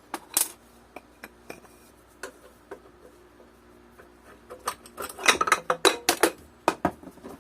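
Small metal bike hardware clicking and clinking while a washer is worked off a bolt, with scattered light clicks and then a quick run of louder clinks about five seconds in.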